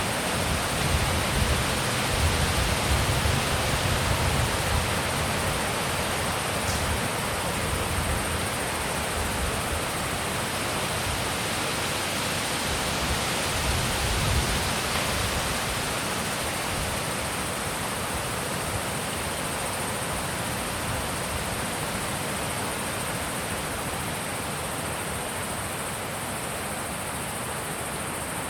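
Wind blowing steadily with a full, even hiss, gusting against the microphone with a low rumble in the first few seconds and then easing off slowly.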